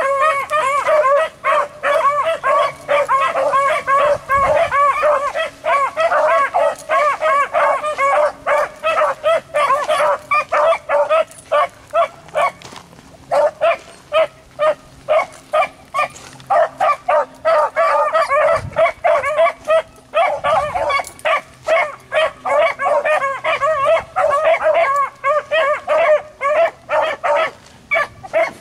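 Beagles baying as they run a rabbit's scent trail, rapid overlapping calls almost without a break, with a short lull about twelve seconds in. The steady baying is the sign that the hounds are on the rabbit's track.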